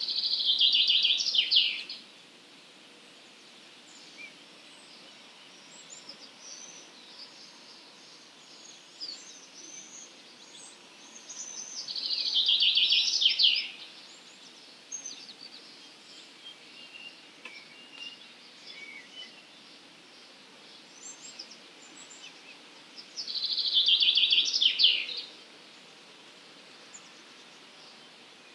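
A songbird sings the same short, fast, rattling phrase three times, each about two seconds long and roughly eleven seconds apart. Faint chirps from other birds come in between.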